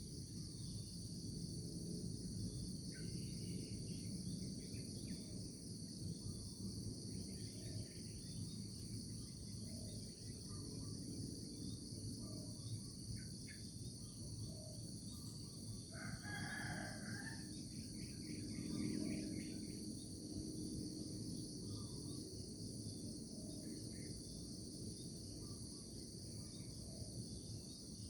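Morning countryside ambience: a steady, high-pitched chorus of insects under a low rumble, with scattered short bird chirps and a rooster crowing once, loudest, about sixteen seconds in.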